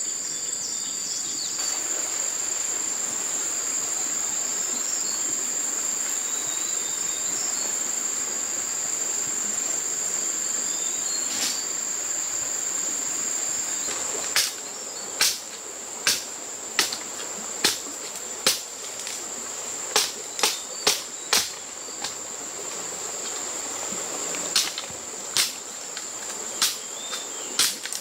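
Insects chirring with a steady high unbroken trill. About halfway through, a run of sharp knocks or taps joins in at uneven intervals, up to about two a second.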